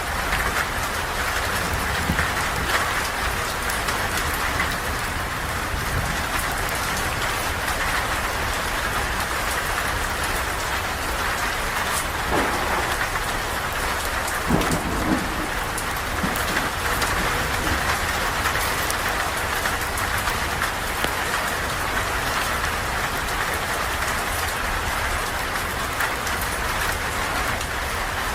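Steady rain falling on a roof and ground, with many small sharp crackles and pops from a campfire scattered throughout.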